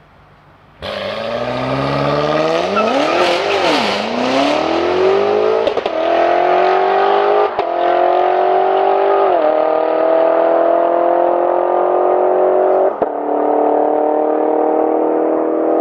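BMW M5 G90's twin-turbo V8 accelerating hard through the gears. Its note starts a second in, climbs, and drops back at each of several quick upshifts, then rises steadily through a long last gear.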